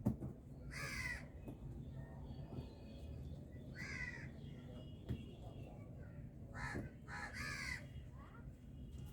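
Harsh cawing calls of a bird, four in all, spread a few seconds apart with the last two close together, over a low steady background rumble.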